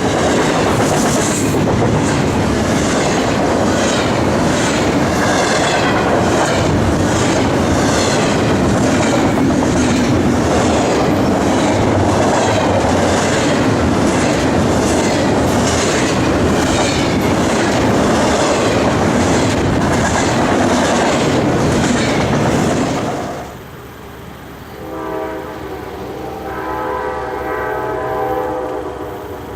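Train passing close, its wheels clicking rhythmically over rail joints at a little more than one click a second. About 23 seconds in, the passing noise drops away suddenly and a multi-chime locomotive horn sounds in several blasts, quieter than the passing train.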